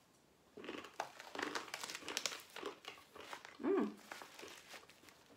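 A person chewing a mouthful of crunchy roasted sprouted mung bean snack close to the microphone, a dense run of crackling crunches. A brief sound of the voice comes about two-thirds of the way in, then quieter crunching.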